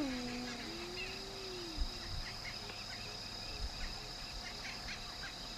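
A drawn-out animal call falls away at the start, and a fainter one rises and falls over the next second or so. Insects trill steadily throughout, with scattered short bird chirps.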